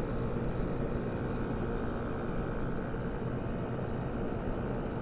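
Kenmore window air conditioner running with its compressor and fan on together, a steady hum. The compressor has started and is cooling, now that the faulty dual run capacitor has been replaced.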